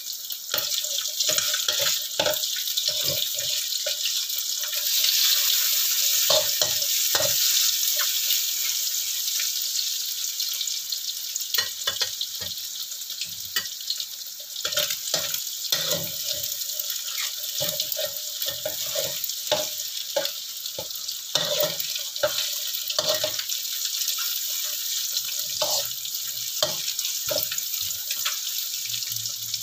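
Oil sizzling steadily in a metal wok as an egg, dried shrimp and mushrooms fry, with a metal spatula scraping and knocking against the wok as the egg is scrambled. The sizzle is loudest about five to eight seconds in.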